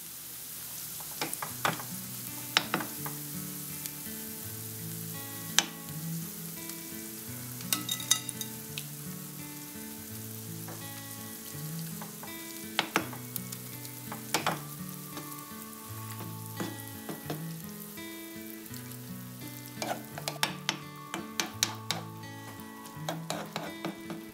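A kuku sabzi mixture of chopped herbs and egg sizzling in hot oil in a nonstick frying pan, with a metal spoon pressing it flat and now and then clicking and scraping against the pan. Soft background music plays underneath.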